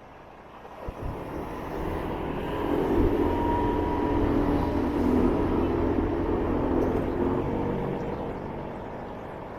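A loud vehicle passes by: engine noise swells over a couple of seconds, holds, then fades away near the end.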